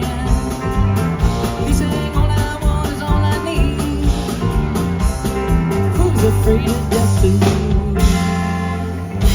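Live country-rock band playing, with electric guitar, bass and drums driving a steady beat. Near the end the drum hits stop and a chord rings on.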